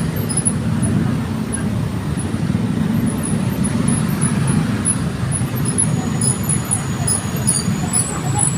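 Steady low rumble of road traffic and vehicle engines, with no distinct rev or pass-by standing out.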